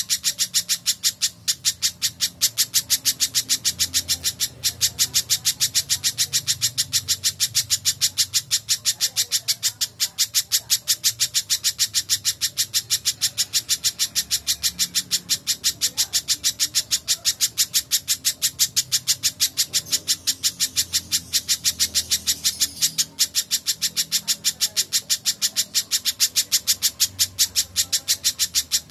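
Spiderhunter (pijantung) calling nonstop: a steady, unbroken string of sharp, high chip notes, about three a second.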